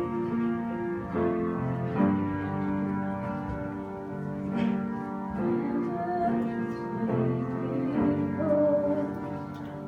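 Worship music: piano or keyboard playing sustained chords, with a wavering melody line entering over it about six seconds in.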